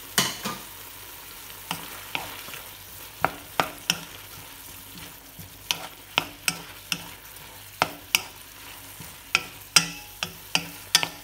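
Wooden spatula stir-frying sliced carrots, bell pepper and baby corn in sauce in a wok: a steady sizzle, with the spatula knocking against the pan at irregular moments throughout.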